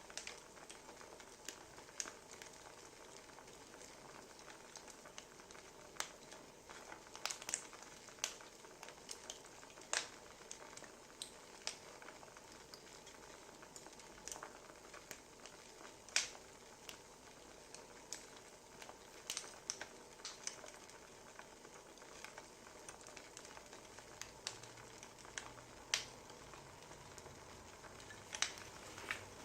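Wood fire crackling quietly: irregular sharp pops and snaps of burning logs over a soft, steady hiss.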